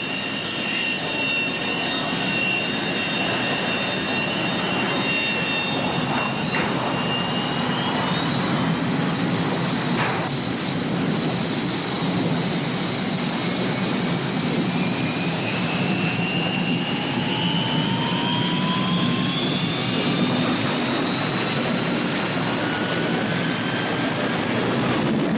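Loud, steady engine noise with a whine whose pitch slowly rises, several whistling tones climbing together.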